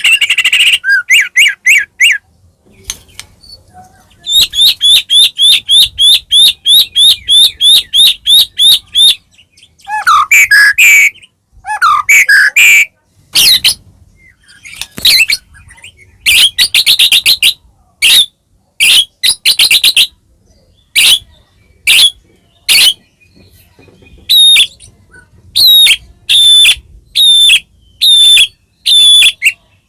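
White-rumped shama (murai batu) singing loudly: a fast run of repeated high notes at about five a second, then varied whistled phrases, and in the last few seconds a series of short, sharp repeated notes at about one and a half a second.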